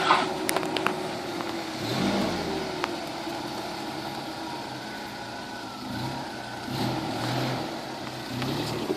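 A 1981 Toyota pickup's engine running off-road, its low note rising and falling as the throttle is worked, with a few sharp knocks in the first second.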